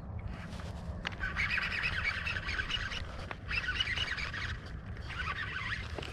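Small birds chattering in three bursts of about a second and a half each, over a steady low hum.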